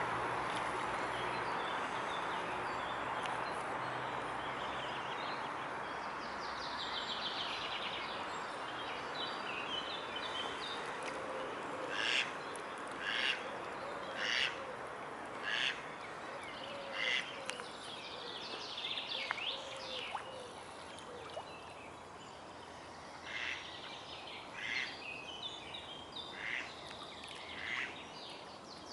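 Birds calling at a pond: a run of short calls, about one a second, mixed with higher twittering song. A steady hiss fades away over the first several seconds.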